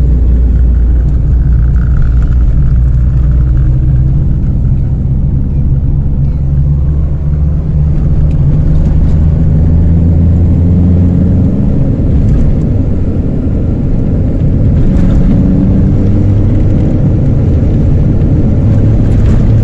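Chevrolet Celta driving with a straight-pipe exhaust, no muffler, its engine running with a loud, steady low drone. The engine note shifts about twelve seconds in.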